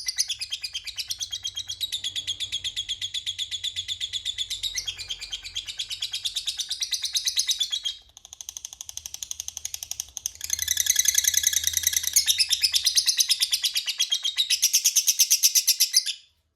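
Lovebird 'ngekek panjang': a long, rapid chattering trill of sharp, evenly repeated high notes, dropping quieter for a couple of seconds midway, then loud again until it stops abruptly near the end.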